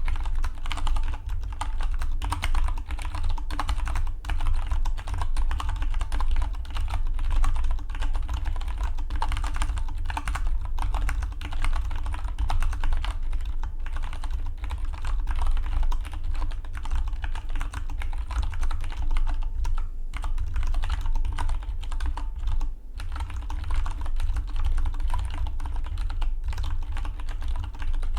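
Continuous fast typing on a Dygma Defy split mechanical keyboard: a dense, steady stream of keystroke clicks, with brief pauses about twenty and twenty-three seconds in.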